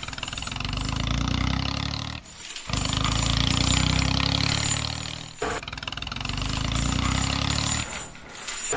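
Tractor engine running steadily in stretches of about three seconds, each broken by a brief dip.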